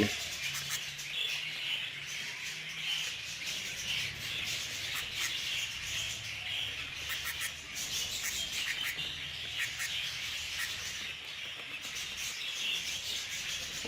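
Budgerigars chirping and chattering continuously, many quick overlapping chirps, over a faint low steady hum.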